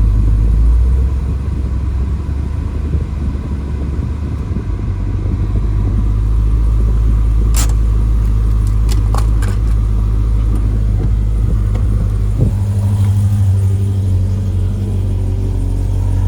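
2013 Corvette Grand Sport's 6.2-litre LS3 V8 running at low revs as the car is eased forward a short way. The engine note changes about a second in and again past the twelve-second mark, and a few sharp clicks come around eight and nine seconds in.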